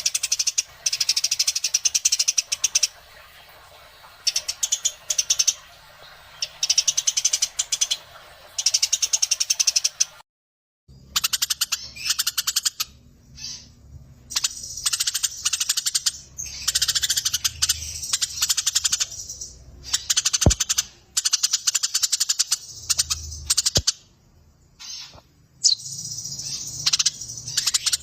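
Eurasian tree sparrows chirping in a fight: rapid rolling runs of sharp, high chirps lasting a few seconds each, with short breaks between runs. The sound drops out completely for about half a second roughly ten seconds in.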